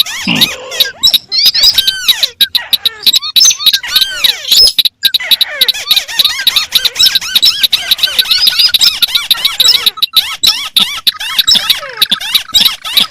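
Recorded crake calls, including the white-browed crake, played as a bird-luring track. Several calls overlap in a dense, fast chatter of squeaky, arching chirps and clicks with no common rhythm.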